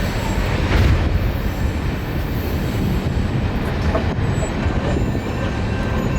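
A CSX mixed freight train rolling past, its cars making a steady, dense rumble on the rails, with thin wheel squeal at times.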